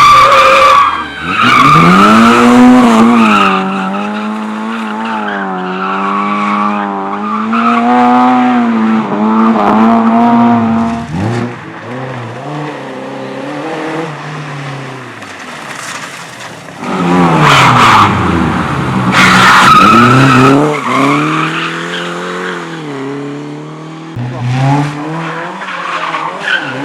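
Race car engines revving up and down as the cars are thrown through the course, with tyres squealing and skidding loudly near the start and again for a few seconds about two thirds of the way through.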